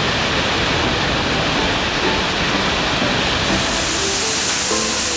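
Steady rushing roar of a waterfall, with music coming in faintly near the end.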